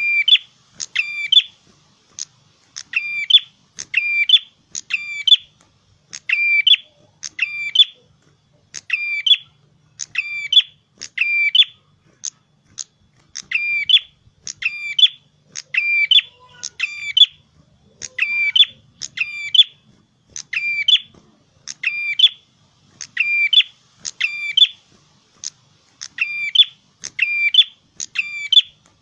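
A prenjak kepala merah, a small Indonesian songbird, calling over and over: short, sharp, high chirps about once a second, often in quick pairs or threes.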